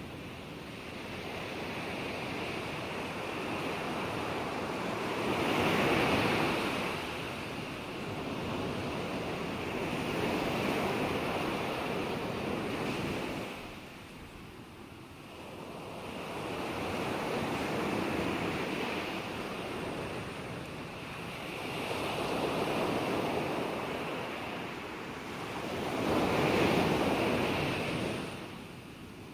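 Ocean waves breaking and washing in, the surf rising and falling in slow surges every few seconds, with a light hiss of wind.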